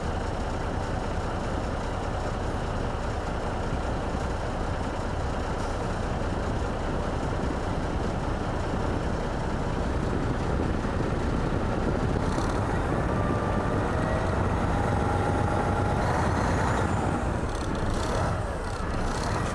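Semi truck's diesel engine running steadily at idle after a replacement crossover battery cable let it start and charge normally, with some faint whining tones over it near the end.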